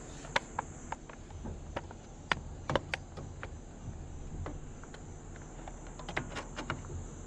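Scattered light clicks and taps at irregular intervals from handling the fan's vent tube and vent parts, trying them in the cut hole.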